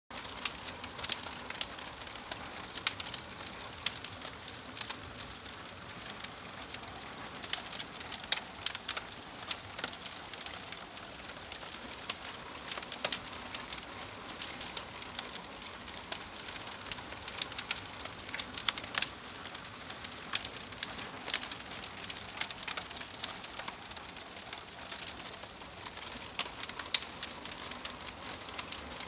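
Wood fire crackling: a steady soft hiss broken by irregular sharp pops and snaps, several a second.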